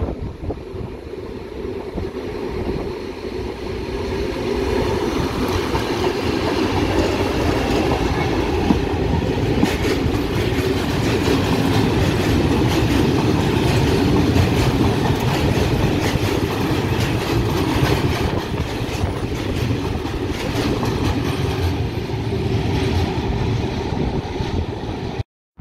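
Freight train passing close by. Its rolling noise grows louder over the first few seconds as the locomotive approaches, then holds steady as a long string of tank and covered wagons goes past, the wheels clacking over the rail joints.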